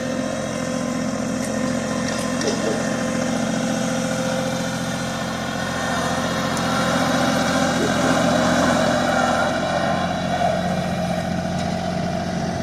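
Tractor engine running steadily, getting louder for a few seconds partway through as it works.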